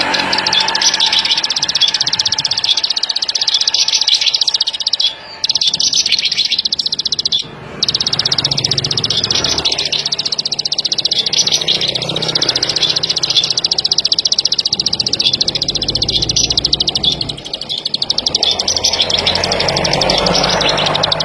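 Ciblek sawah, a small rice-field prinia, singing a fast, continuous buzzing trill. It breaks off briefly twice, about five and seven and a half seconds in.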